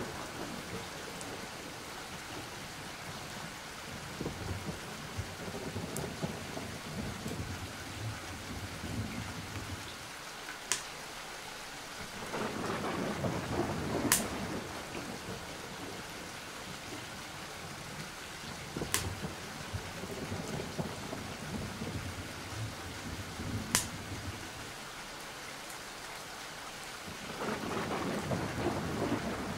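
Steady rain with thunder rumbling in several slow swells, and four sharp clicks spread through it.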